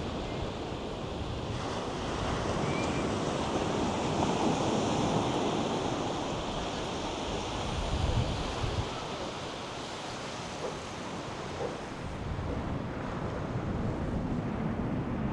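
North Sea surf breaking and washing up the beach, swelling and ebbing, with wind buffeting the microphone in low gusts.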